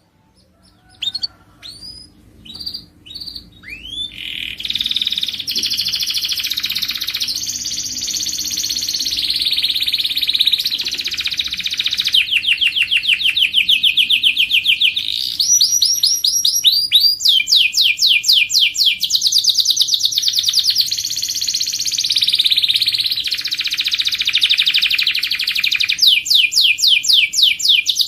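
Domestic canary singing: a few short chirps, then from about four seconds in a long unbroken song of rapid trills and rolling repeated notes that change phrase every second or two.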